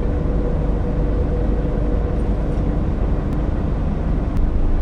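Steady low rumble of an idling pickup truck, with the faint steady whine of a small quadcopter drone's propellers that fades about two seconds in.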